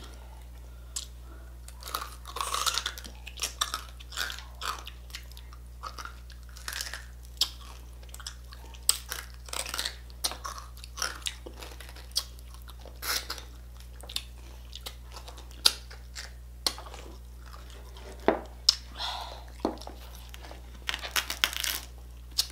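Close-up chewing and crisp crunching of crispy pata, deep-fried pork knuckle with crackling skin, eaten by two people. The crunches come irregularly, some sharp and loud, over a steady low hum.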